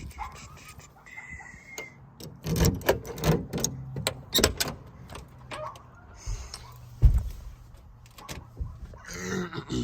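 Handling noises in and around a pickup cab: clicks, rattles and knocks, with one loud thump about seven seconds in like a vehicle door shutting, over a faint low hum.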